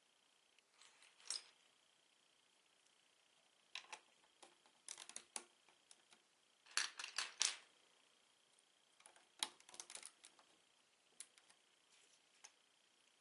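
Lego bricks being handled and pressed together: light plastic clicks and clatters in short clusters, the loudest bunch about seven seconds in.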